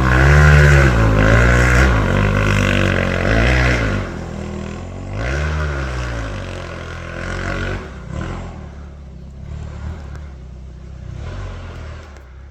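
Yamaha enduro dirt bike engine revving up and down in repeated throttle blips, loud for the first four seconds. One more rev comes a little after five seconds, then the engine gets quieter toward the end.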